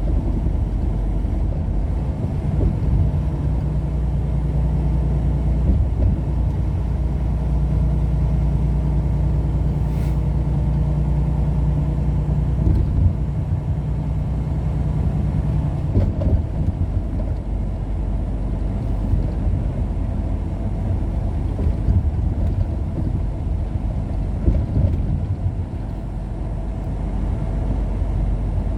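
Steady engine and road drone of a vehicle cruising at highway speed, heard from inside the cab. A low hum sits over the rumble for the first half and then fades.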